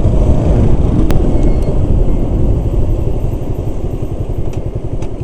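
Motorcycle engine running with a steady low rumble, easing off a little in the second half, with one sharp click about a second in.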